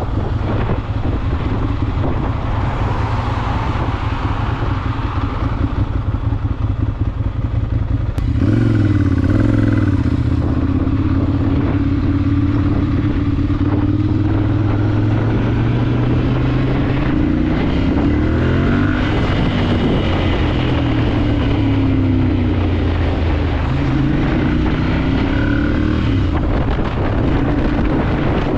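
Ducati Monster 796's air-cooled L-twin engine under way, with wind rushing over the microphone for the first several seconds. From about eight seconds in the engine note comes up louder and rises and falls in pitch several times as the bike accelerates and slows.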